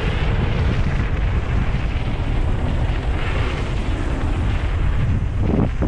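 Wind buffeting the microphone of a camera on a moving mountain bike: a loud, steady low rumble without a break.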